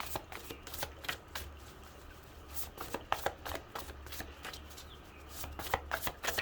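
Tarot cards being shuffled by hand: a run of quick, irregular card clicks and slaps, over a faint steady low hum.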